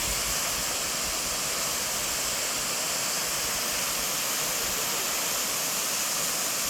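Small waterfall: falling water splashing in a steady, even rush.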